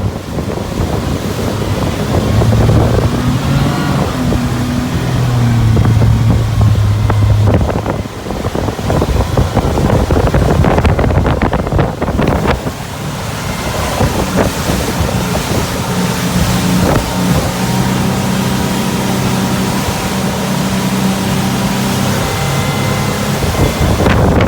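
A 2012 Hurricane 2400 deck boat under way, its engine running with a steady hum over heavy wind buffeting on the microphone and rushing water.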